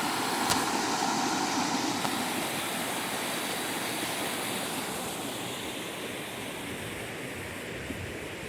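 A steady rushing noise that slowly fades, with a single sharp click about half a second in.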